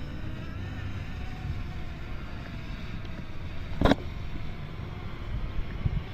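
Wind rumbling on the microphone, with a sharp knock about four seconds in.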